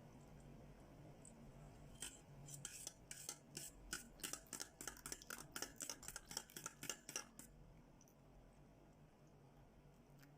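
Eggs and milk being beaten in a bowl with a utensil: rapid clinking strokes against the bowl, about four or five a second, starting about two seconds in and stopping a few seconds before the end.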